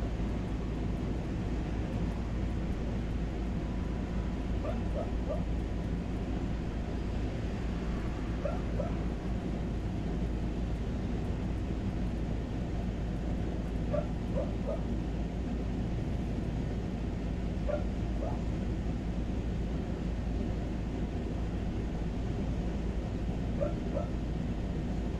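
Short high yips or whimpers in quick pairs, repeating every few seconds, over a steady low outdoor noise.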